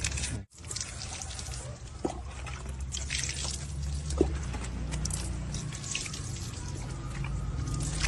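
Water pouring and dripping, with a steady low hum underneath; it drops out briefly about half a second in.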